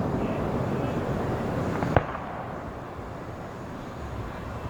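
Fireworks going off: a low rumble of bursts that fades, with one sharp report about two seconds in.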